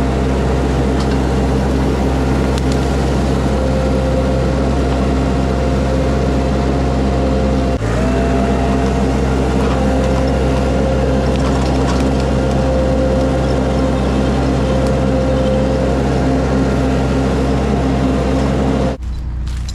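Mini skid steer's engine running steadily under load, with a steady whine over it, while it pulls a chained shrub. The sound dips briefly about eight seconds in and drops off sharply near the end.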